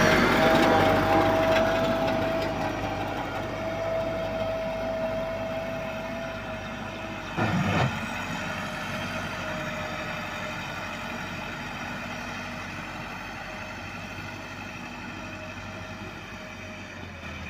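Massey Ferguson 385 tractor engine running steadily with a constant whine, growing fainter as the tractor moves away. A short loud burst comes about seven and a half seconds in.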